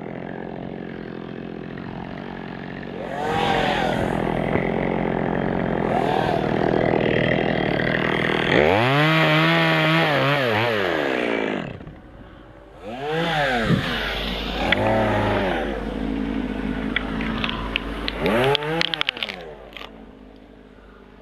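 Two-stroke chainsaw idling, then running at high throttle and revved up and down several times, with one long rise and fall followed by three short blips before it drops back toward idle.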